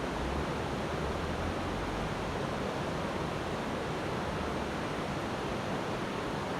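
Steady rushing of flowing river water, with an uneven low rumble of wind on the microphone.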